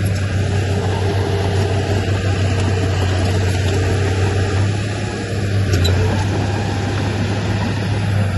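Heavy diesel engine of earthmoving machinery, a dump truck or bulldozer, running steadily with a deep, constant drone.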